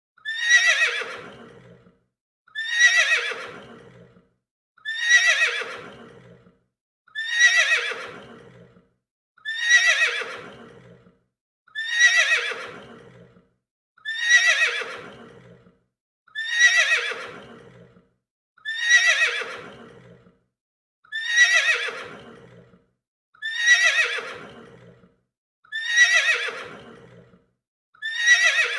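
A horse neighing: the same whinny repeated about every two seconds, each call dropping in pitch as it fades, with short silences between.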